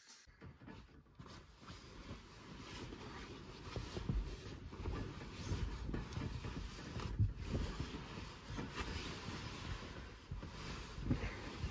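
Rustling of a sleeping bag and clothing as a person climbs in and settles, with a few soft bumps against the car's interior.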